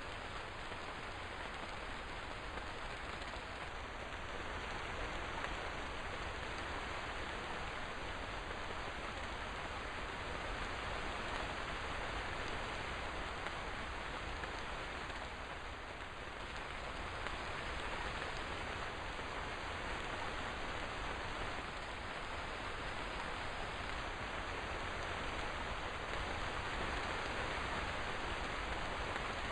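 Steady rainfall, an even hiss of rain falling without a break.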